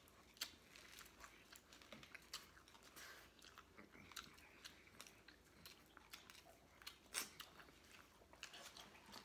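Faint, close-up chewing and crunching of crisp hard-shell tacos: many small crackling clicks, with a sharper crunch about half a second in and another about seven seconds in.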